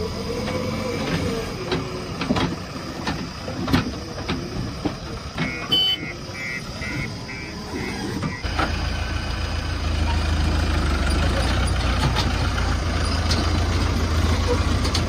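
Heavy vehicle engine running with clattering and knocks. A quick run of high-pitched beeps comes about halfway through, then a steady low engine rumble grows louder from about eight seconds in and holds.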